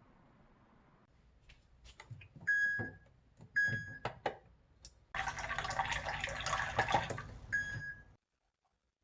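A few clicks and three short electronic beeps, with a burst of running water lasting about three seconds in the second half. The water cuts off suddenly just after the last beep.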